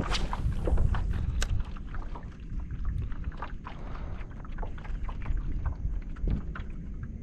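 Wind buffeting the microphone in a low, steady rumble, over irregular small knocks and splashes of choppy water against a kayak hull.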